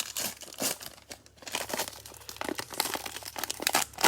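Plastic wrapper of a Panini Prizm baseball cello pack crinkling and tearing as it is opened by hand, a quick run of irregular crackles and rips.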